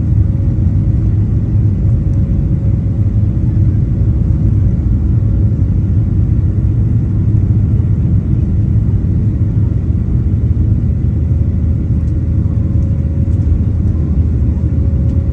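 Steady low rumble of a Boeing 737-700 cabin in flight: engine and airflow noise heard from a passenger seat, with a faint steady hum above it.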